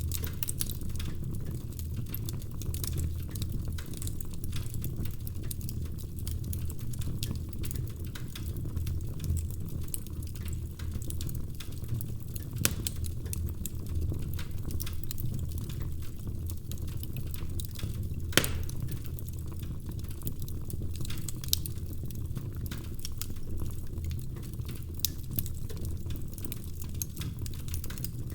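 Log fire crackling: a steady low rumble of burning wood under many small snaps, with a few louder pops, the sharpest about two-thirds of the way through.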